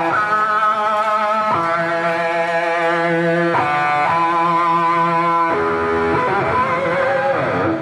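Live rock band playing an instrumental passage: sustained chords with a slight vibrato, changing about every two seconds.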